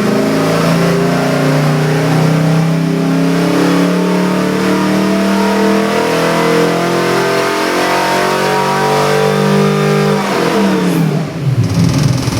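Chevy 427 small-block V8 stroker with Holley Sniper fuel injection running at a raised, fairly steady speed, then dropping quickly back to a lumpy idle about ten seconds in.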